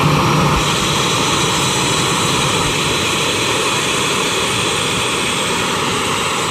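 Jet airliner engines running loud and steady: a broad rush of jet noise with a high whine held over it.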